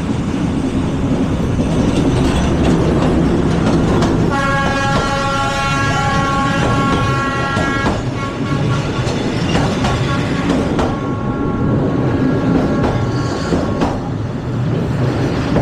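Train passing close by with a continuous rumble and rattle of its cars. Its horn sounds a long, steady chord from about four seconds in to about eight seconds, then carries on more faintly for several seconds more.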